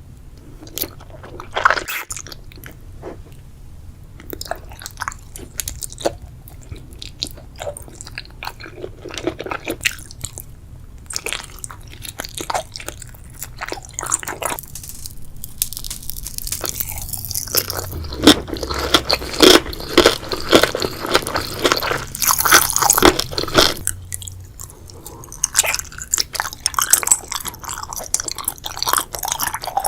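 Close-miked chewing and biting of crunchy food, with sharp crackling crunches, denser and louder in the middle stretch.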